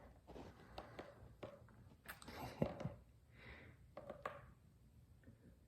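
Quiet handling noises while adding oil: scattered light clicks and knocks, with a brief soft rush about three and a half seconds in.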